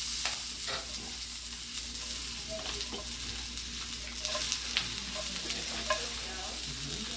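Sliced mushrooms sizzling steadily in a hot frying pan, with a utensil scraping and clicking against the pan as they are stirred; the moisture is still cooking out of them.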